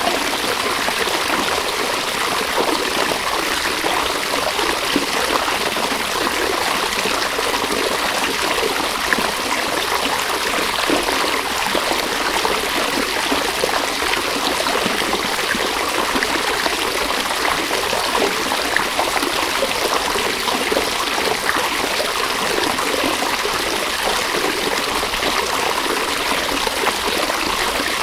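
River water flowing steadily, an even rushing sound that does not let up.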